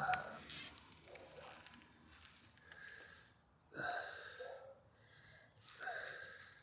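A person breathing heavily close to the microphone: several loud, hissy breaths, one every second or two.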